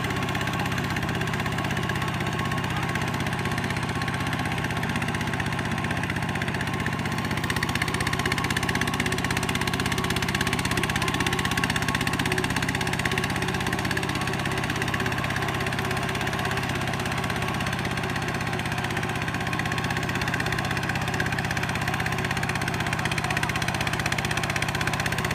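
Engine of a rice-harvesting machine running steadily at an even speed.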